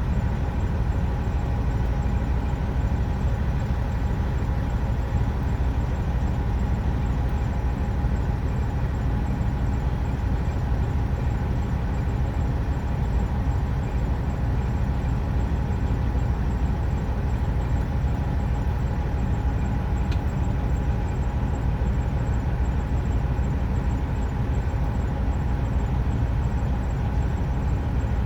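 Truck running steadily: a constant low rumble with a faint steady whine above it, unchanging throughout.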